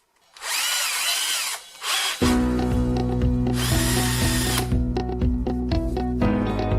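Cordless drill motor whining in two short runs, its pitch rising and falling as the speed changes. Background music with a steady bass comes in about two seconds in, under the second run.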